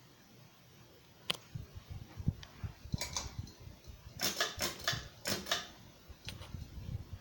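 A run of sharp clicks, knocks and light rattles, thickest from about three to five and a half seconds in.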